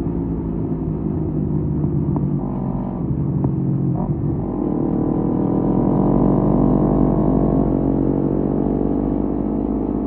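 Kawasaki Z250 engine through a SeaPro aftermarket muffler, running at cruising speed. The revs climb for about two seconds near the middle, then hold steady at the higher pitch.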